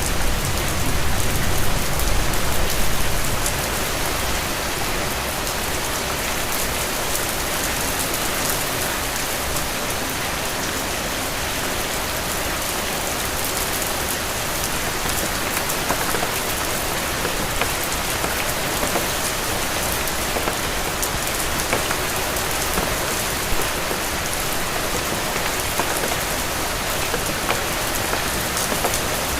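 Steady rain falling, an even hiss with scattered drop clicks. A low rumble under it in the first three seconds or so dies away.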